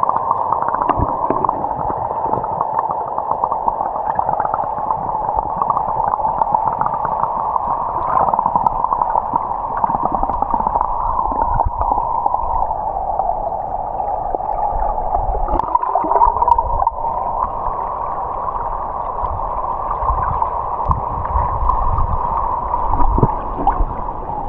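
Waterfall and moving water heard through a submerged camera: a steady, muffled rushing with a hollow ringing tone and low rumble, and a few faint knocks of the camera.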